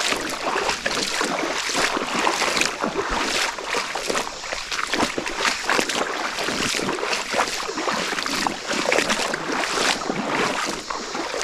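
Someone walking a flooded creek bed: irregular splashing, crunching footsteps over steady water noise.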